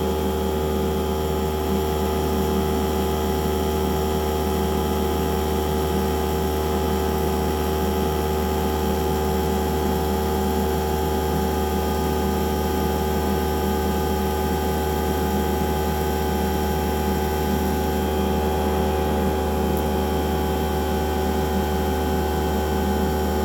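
A steady mechanical hum: a strong low drone with several constant higher tones, unvarying in level.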